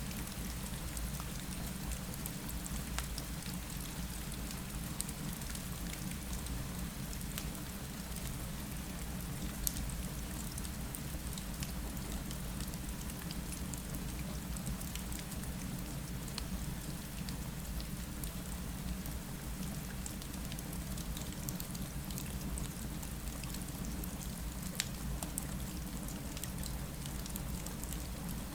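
Steady rain falling against a window over a low, even rumble, with scattered sharp crackles from a fireplace.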